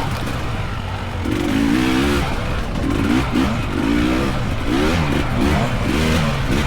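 Dirt bike engines revving up and down over and over, the throttle opening and closing every second or so as the bikes ride the trail.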